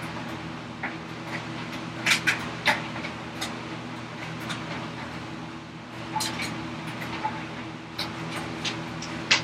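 Sharp, irregular knocks of a chisel being struck to chop through the wood of a workbench vise chop, some coming in quick pairs, over a steady low hum.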